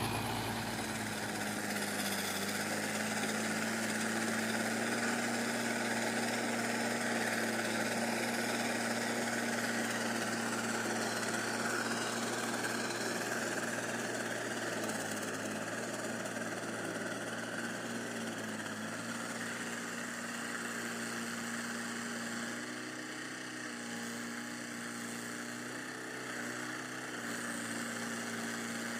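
Mahindra tractor's diesel engine running at a steady pitch while pulling a plough.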